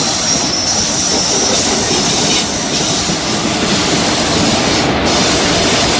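Long-distance express train running past a station platform: a loud, steady rumble of wheels on rails with a thin, high squeal over it.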